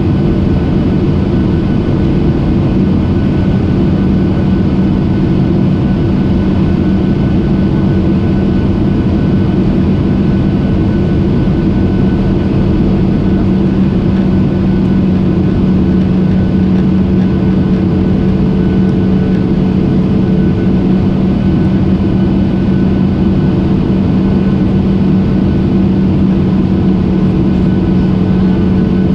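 Airliner cabin noise: the steady, loud drone of the engines and rushing air heard from inside the plane, with a constant low hum and a few fainter steady tones above it.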